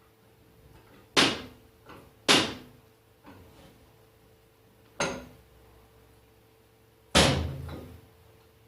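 Four sharp, heavy metal knocks, a second or more apart, each with a short ring, as the parts of a Parkinson quick-action vice are worked into place during assembly. A few fainter knocks fall between them.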